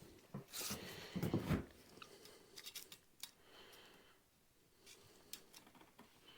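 Workshop handling sounds: a short scraping, rustling stretch about a second in, followed by scattered light clicks and knocks.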